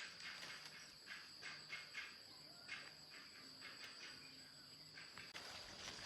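Faint, steady high-pitched insect chirring, such as crickets, with soft irregular scuffs a few times a second.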